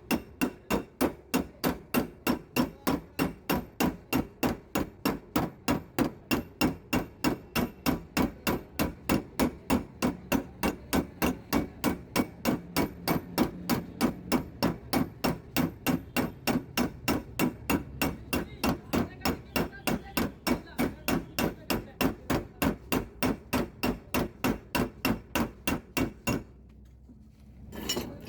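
A hammer tapping on a car door's steel panel in dry dent repair: steady, rapid strikes, about three a second, that stop suddenly shortly before the end.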